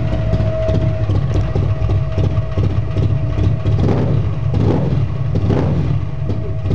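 Buell XB12S's 1203 cc air-cooled V-twin running through an unmuffled Jardine exhaust: a loud, lumpy rumble at idle, with three quick throttle blips about four to six seconds in.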